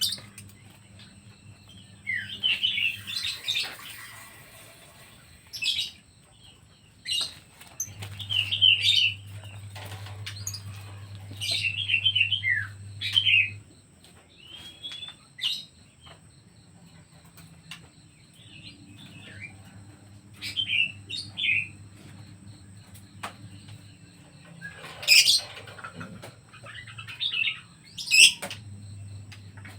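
Pet birds chirping in short, scattered bursts of calls, with brief sharp clicks between them and a low hum that comes and goes.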